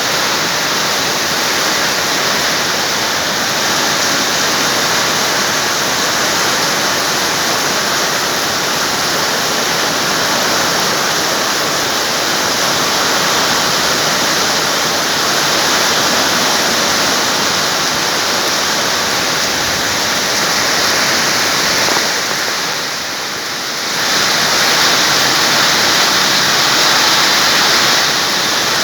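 Heavy rain falling as a loud, steady rushing hiss, easing briefly for a moment about two-thirds of the way through before returning.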